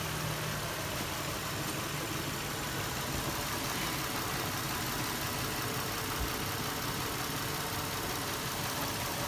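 Infiniti G35's 3.5-litre V6 idling steadily, with no lifter tick to be heard.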